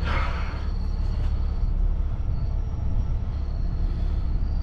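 Steady low rumble of a heavy truck's diesel engine idling, with a thin steady high whine over it that drops out twice around the middle.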